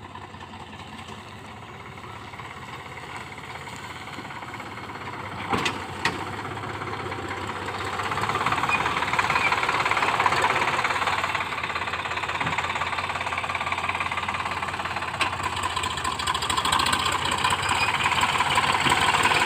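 Heavy diesel engine running, growing steadily louder, with two short sharp knocks about five and a half seconds in.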